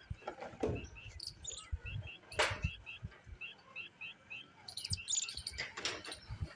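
Small birds chirping in quick runs of short notes, with a few sharp scrapes or knocks between them, the loudest about two and a half seconds in.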